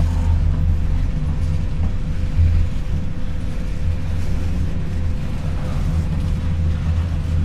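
Freight train cars rolling past: a steady, loud low rumble with a thin steady tone above it.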